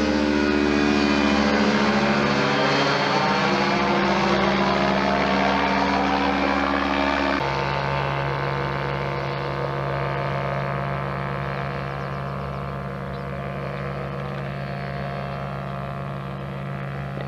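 Ultralight aircraft engine and propeller running, its pitch sliding down over the first several seconds. About seven seconds in it drops suddenly to a lower steady note, then slowly fades.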